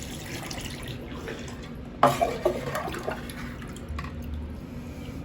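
Water being bailed out of a toilet and poured, with dripping and splashing throughout and a sudden louder splash about two seconds in.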